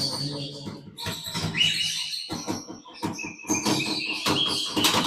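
Parrots in an aviary chirping and calling, with many short, harsh calls one after another and higher chirps.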